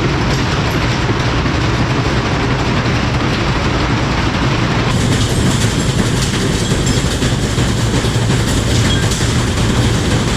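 Whirlpool front-load washing machine in a hard spin with an unbalanced load, shaking violently and clattering without a break.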